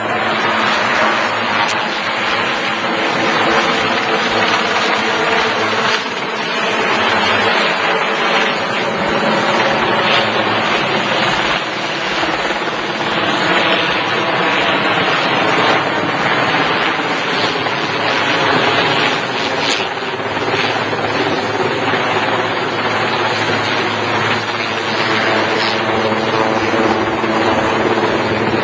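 Helicopter running steadily and loudly, its engine and rotor noise continuous, as during a heavy-lift operation.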